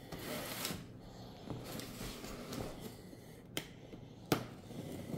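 A cardboard box being handled as its sticky tape is worked loose: soft rustling and scraping, with two sharp clicks about three and a half and four and a half seconds in.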